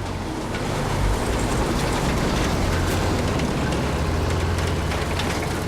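Truck engine running with a steady low hum and road noise, swelling about a second in as it gets under way.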